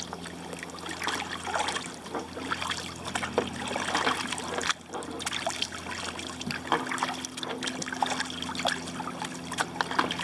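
Kayak paddle strokes on flat water: irregular small splashes and water trickling and dripping off the paddle blades, with a faint steady hum underneath.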